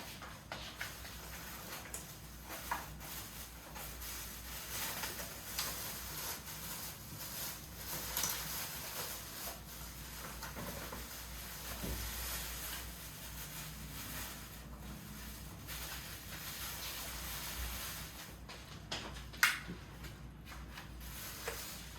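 Small household handling sounds: scattered light clicks, taps and rustles over a steady room background, with one sharper click about three-quarters of the way through.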